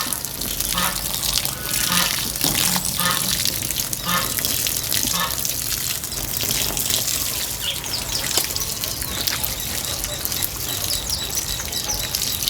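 Water running or splashing steadily as a continuous hiss, with faint voices in the first few seconds.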